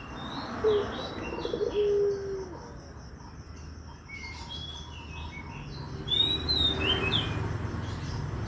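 Ringneck dove (puter) cooing: a short coo, then a rolling coo that ends in a held note about two seconds in, and a fainter coo near the end. Small birds chirp throughout, with a quick run of high chirps about seven seconds in.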